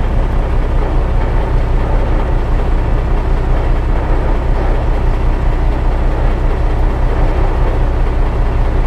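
Steady, loud low rumble of a vehicle engine and road noise, a truck driving along at an even pace.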